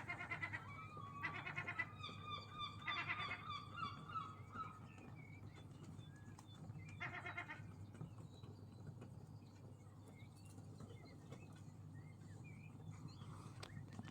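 Seagulls calling: short, harsh, rapidly pulsed calls, three in the first four seconds and one more about seven seconds in, with thinner gliding notes between them over a steady low hum.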